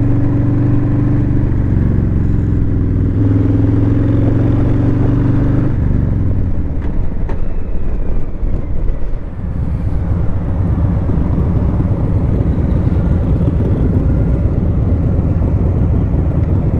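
Motorcycle engine running under way with heavy wind rush. The engine holds a steady note for about six seconds, then drops off as the rider eases off, leaving mostly wind and road rumble.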